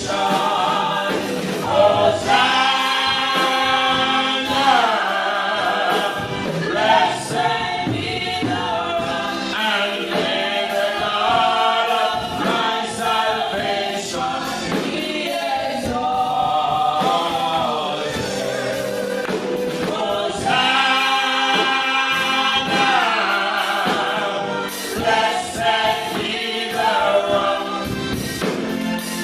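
Gospel praise and worship team singing in harmony as a choir, with some long held notes.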